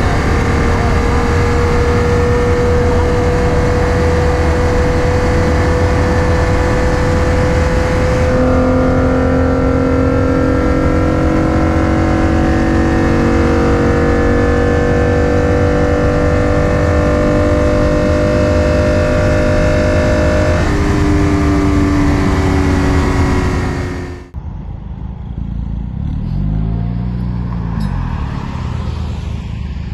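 Car engine running hard under sustained acceleration, its pitch climbing slowly with changes about 8 and 21 seconds in. About 24 seconds in it cuts off abruptly to a quieter engine sound that rises and falls in pitch.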